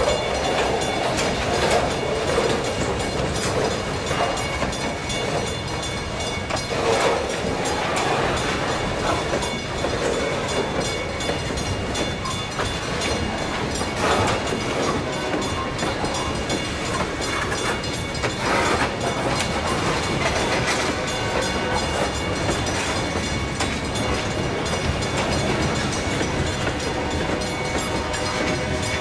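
Freight cars of a train rolling past close by: a steady rumble of steel wheels on rail, with scattered clacks as the wheels cross rail joints.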